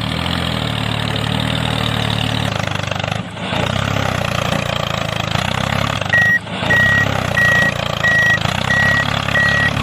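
Vehicle engine running steadily. From about six seconds in, a reversing alarm beeps at an even pace, about six times.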